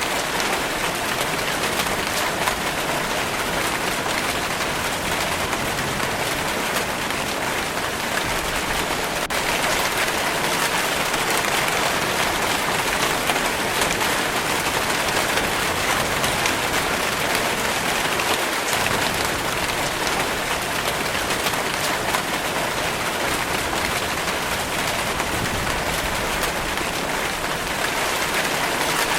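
Steady rainfall, a dense, even hiss of raindrops falling on a surface.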